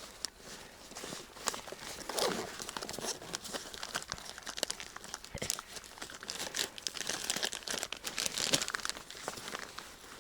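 Close, irregular crinkling and rustling with many small crackles, from camouflage material being handled and arranged on a hunting blind.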